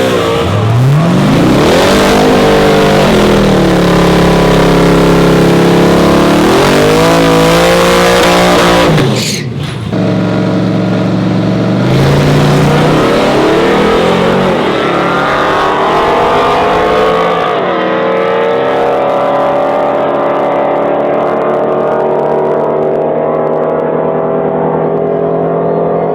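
A drag-racing truck's engine running hard at high revs, its pitch rising and falling several times, with a short drop in level about nine seconds in, then holding a steady, slowly climbing note through the last third.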